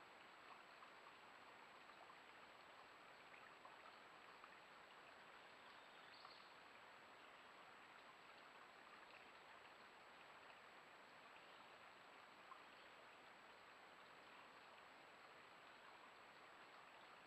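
Near silence: a faint steady hiss with a thin, steady high-pitched whine over it and a few very faint ticks.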